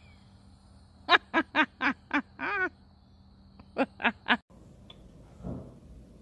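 An animal giving a quick run of short, sharp calls: six in about a second and a half, the last one longer and wavering. Three more follow after a pause, then the sound cuts off abruptly.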